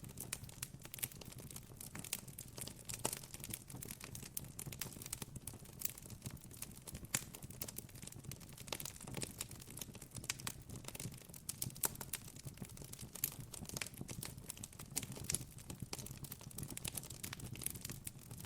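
Campfire crackling steadily, with a dense, irregular run of small sharp pops and snaps over a faint low rumble.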